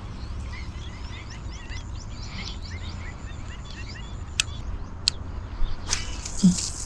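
Many small birds chirping, a quick scatter of short chirps, over a steady low rumble. Two sharp clicks come a little past the middle, and a short hissing burst near the end.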